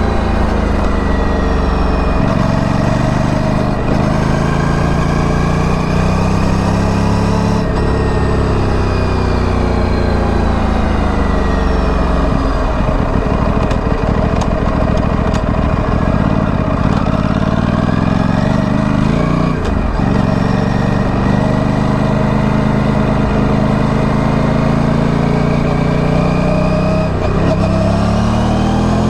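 Aprilia Tuono 457's parallel-twin engine through its stock exhaust, pulling up in pitch several times as the bike accelerates, each pull dropping back at a gear change or on easing off. A rougher, less even stretch comes about halfway through.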